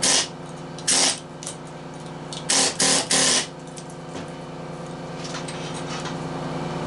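Copper windings being pulled out of a scrap electric motor stator: five short, loud, rasping bursts, one at the start, one about a second in and three in quick succession around the middle. A steady machine hum runs underneath.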